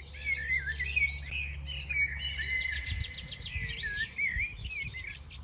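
Several songbirds chirping and singing at once, a dense mix of quick sweeping notes and fast trills. A low steady hum runs underneath and stops about halfway through.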